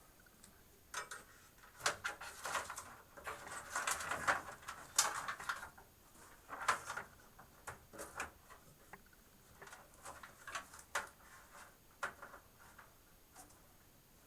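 Hands working cables inside a computer case: irregular clicks, taps and rustles as a SATA data cable is routed and plugged into its port.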